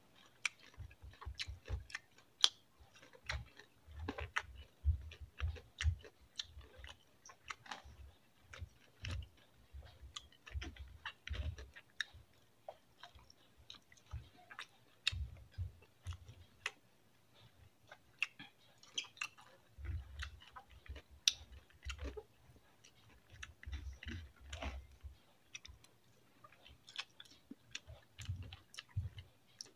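Close-up chewing of a man eating rice and noodles with his hands: irregular wet mouth clicks and smacks with soft low thumps, off and on throughout.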